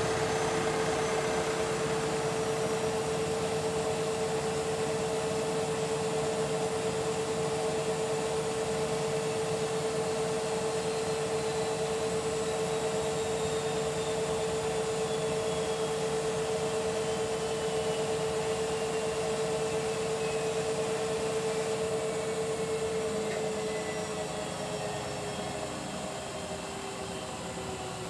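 Washing machines in a fast spin: a steady high motor whine over the rushing of the drum. From about 23 seconds in, the whine slides down in pitch and the sound eases off as a spin begins to wind down.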